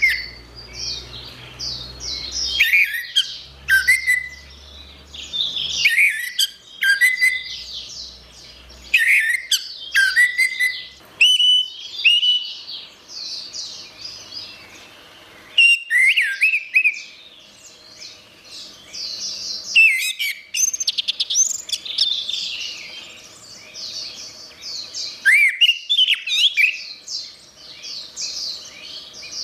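Orange-headed thrush singing a rapid, varied song of high whistled and chattering phrases, with short pauses between phrases.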